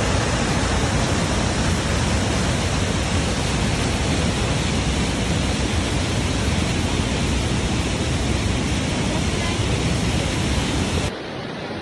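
Düden waterfall's falling water making a loud, steady rush. It drops away abruptly near the end to a quieter rushing noise.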